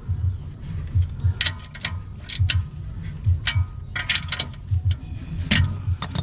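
Chevy Aveo engine idling through a freshly repaired muffler pipe, with an uneven low throb and scattered sharp ticks. The exhaust runs quiet, the sign that the broken pipe is sealed.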